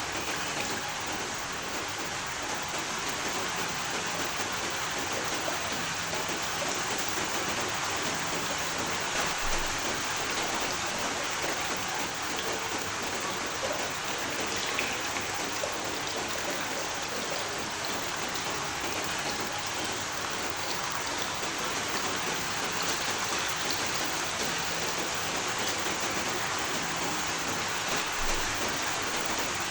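Steady rain falling: an even, continuous hiss of many drops, with a few slightly louder drops here and there.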